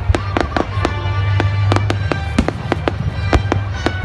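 Fireworks going off in a rapid string of sharp bangs and crackles, about four a second, with music playing underneath.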